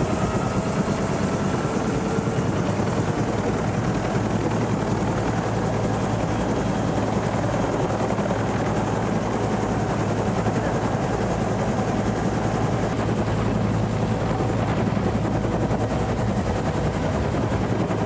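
Helicopter rotor and turbine running steadily, heard from inside the cabin.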